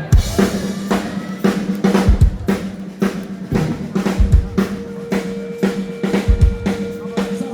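Live band's drum kit playing a steady beat, about two hits a second, snare and rimshots with kick drum hits, over a sustained held note from another instrument.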